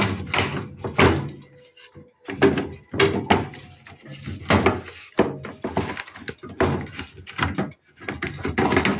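Repeated short clicks and knocks of a gas heater's parts being handled and pressed into place as its upper section is fitted back on.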